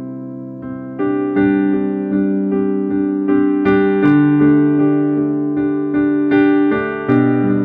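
Keyboard music: sustained piano-like chords with notes struck in a steady pulse, getting louder with a new chord about a second in and again near the end.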